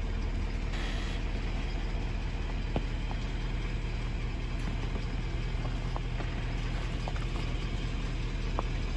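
Ford truck engine idling steadily, with a low even hum and a few faint ticks.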